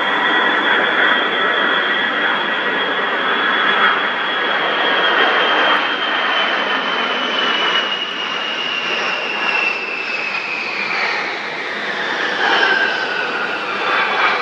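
Jet engines of a Boeing 707 AWACS (E-3 Sentry) passing close during a touch-and-go: a loud roar with a screaming high whine that falls slowly in pitch as the aircraft goes by.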